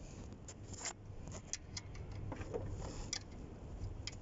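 Steady low hum with scattered light clicks and taps, as of handling tools or parts.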